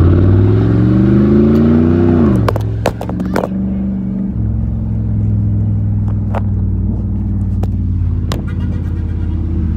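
Pickup truck with a new aftermarket exhaust accelerating hard in first gear. The exhaust note rises for about two seconds, then drops as the throttle is lifted, with a few sharp pops. It then settles into a steady low drone.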